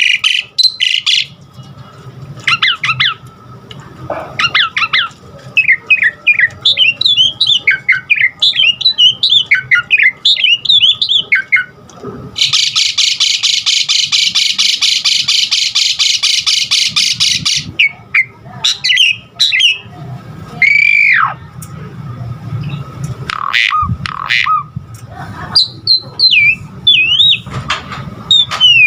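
Asian pied starling (jalak suren) singing a long varied song of chirps, squawks and whistled glides. About twelve seconds in it gives a loud harsh buzzing rattle lasting about five seconds.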